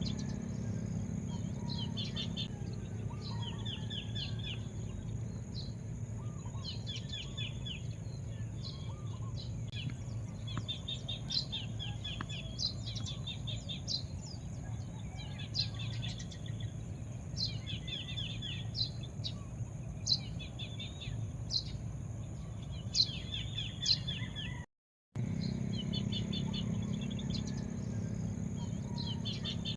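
Small songbirds chirping over and over in short, quick trilled phrases above a steady low rumble. The sound cuts out completely for a moment near the end.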